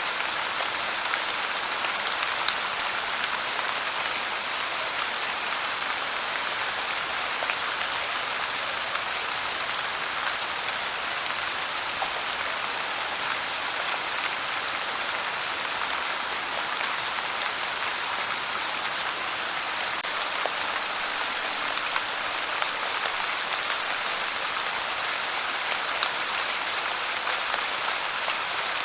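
Steady rain, with fine drips and patters of drops on a surface over an even hiss.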